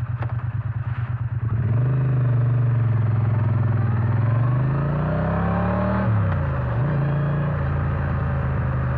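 Triumph Bonneville T100's 900 cc parallel-twin engine idling with a pulsing beat, then pulling away. The engine note rises as it accelerates, falls back sharply about six seconds in, then runs steadily.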